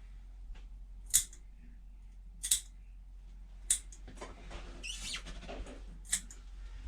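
Cat nail clippers snipping through claws: four sharp clicks, the first three about a second and a quarter apart, the last after a longer pause.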